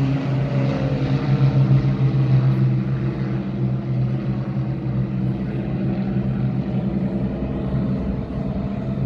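Piston-engined propeller aircraft flying past with a steady engine drone, loudest in the first few seconds and easing slightly after.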